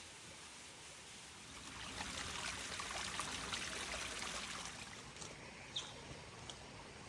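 Water trickling and splashing, swelling for a few seconds and then easing back, with a few scattered ticks near the end.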